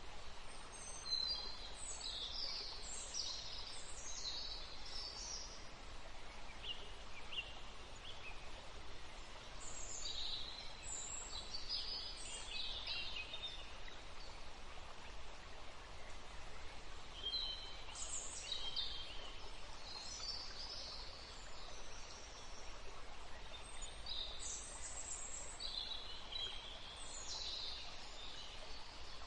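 Songbirds singing in bouts of quick high chirps and trills, over a steady background hiss.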